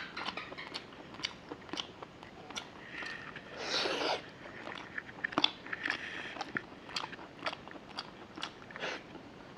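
Close-up chewing of a mouthful of rice and chicken leg: a run of short, sharp mouth clicks from the lips and tongue, with a longer, louder bite about four seconds in as another handful goes into the mouth.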